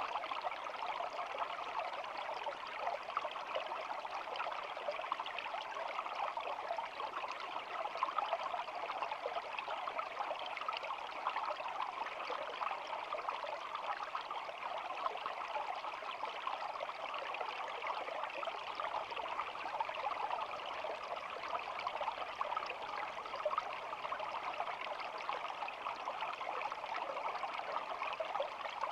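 Shallow stream babbling steadily over stones: an even splashing and trickling.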